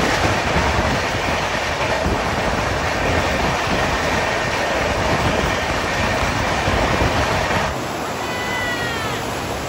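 A passenger train running along the track, heard from the train itself: a steady rush of wheel and track noise with clickety-clack. About eight seconds in it cuts to a quieter, steady rush of surf with a few short high chirps.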